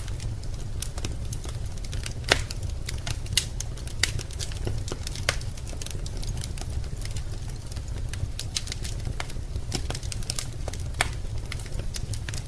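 Wood fire crackling in a fireplace: irregular sharp pops and snaps over a steady low rumble, with the loudest pops a couple of seconds in.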